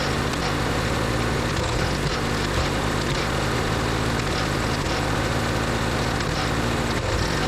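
An engine running steadily at an even speed, a constant low hum with no breaks.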